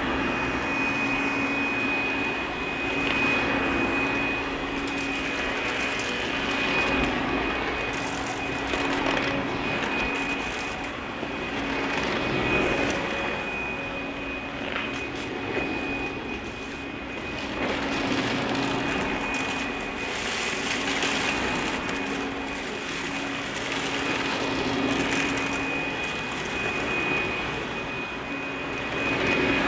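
Russell Hobbs Athena 2 Pet upright vacuum cleaner running on a hardwood floor, its motor giving a steady high whine over a hum. The loudness swells and eases every few seconds as it is pushed back and forth.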